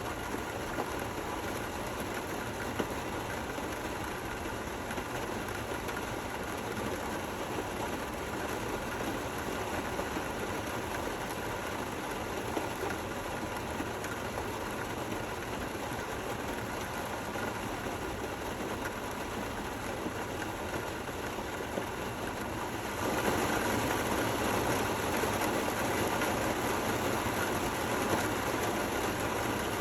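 Steady rain falling, an even hiss that becomes abruptly louder about three-quarters of the way through.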